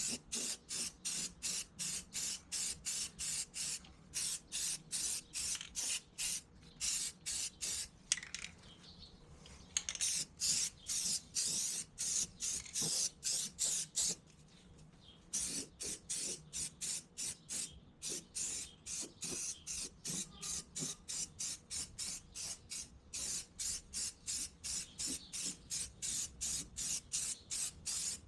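Aerosol spray paint being applied in short, rapid bursts, about two and a half hisses a second, pausing briefly twice.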